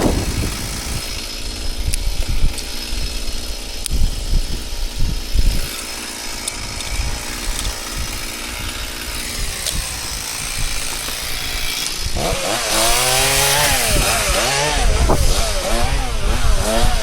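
Low rumbling and scattered knocks, then, about twelve seconds in, a chainsaw comes up to full revs and cuts wood, its pitch rising and falling repeatedly as it bogs and recovers under load.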